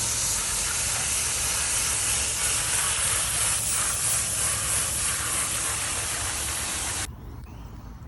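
Steady hiss of a cleaner spray nozzle, cutting off suddenly about seven seconds in. A low hum runs underneath.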